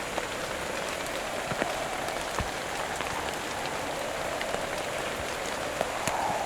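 Heavy rain falling in a steady, dense patter, with scattered sharp ticks of single drops.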